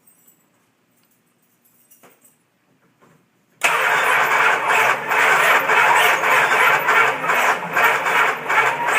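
Starter of a 1969 Dodge Charger cranking the engine, which does not catch, beginning suddenly about three and a half seconds in with an even pulsing. The cranking sounds like a dead or dying battery, although the battery has tested good under load.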